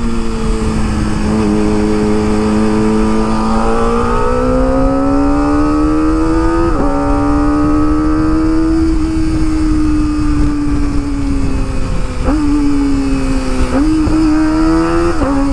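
Kawasaki ZX25R's 249 cc inline-four running through an Akrapovic exhaust while riding: the engine note climbs slowly under throttle, breaks briefly about seven seconds in, then eases off, with two quick blips of revs near the end.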